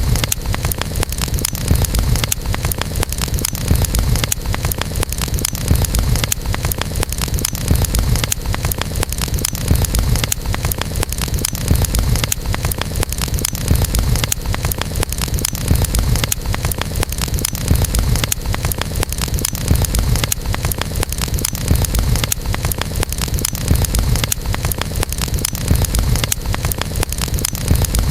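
Wood campfire crackling, with many small pops and snaps over a steady low rumble of the burning fire.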